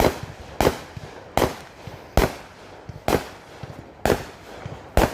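Fireworks going off in a rapid string of sharp bangs, about eight in five seconds, each one trailing off briefly.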